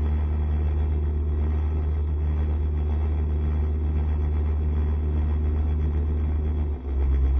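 SCR110 scooter running steadily under way, with heavy low rumble, the engine note mixed with wind on the microphone. It drops off briefly near the end, then picks up again.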